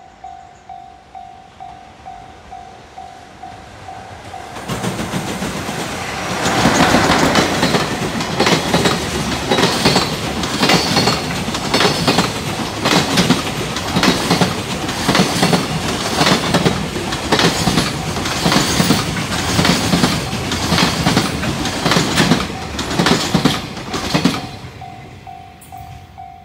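JR Freight EF66 electric locomotive and its long train of container wagons passing close by, rising about four seconds in and then a steady, loud clickety-clack of wheels over rail joints that stops sharply near the end. Before and after the train, a level-crossing warning bell rings about twice a second.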